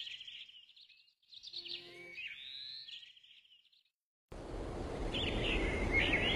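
Birdsong: two short phrases of rising and falling notes and trills, then, about four seconds in, a steady outdoor hiss starts abruptly with birds chirping over it.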